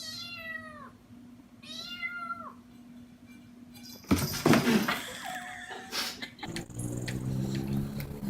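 Domestic cat meowing twice, each call a falling meow of under a second. About four seconds in comes a loud sudden burst of noise, and a steady low hum starts near the end.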